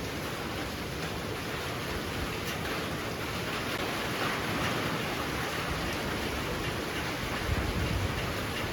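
Heavy rain pouring down in a steady, dense hiss. A low rumble of wind swells briefly near the end.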